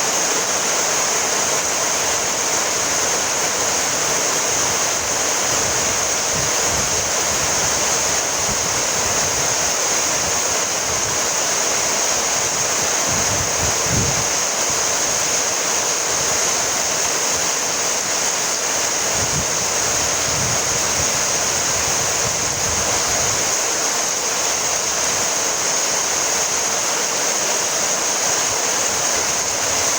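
Steady rainfall, a dense even hiss, with a few brief low rumbles near the middle.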